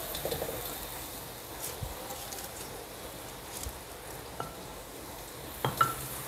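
Ground spice paste sautéing in oil in a pan: a quiet, steady sizzle with a few scattered clicks, two sharper ones near the end.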